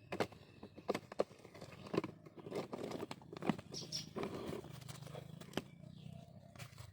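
Puppy making a low, growl-like sound that holds steady through the second half, amid repeated sharp clicks and rustling from handling.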